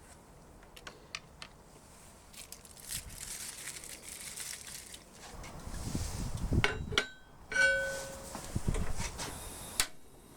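Metal utensils and iron cookware clinking and knocking, with two short ringing clangs about seven to eight seconds in and a hiss in the middle.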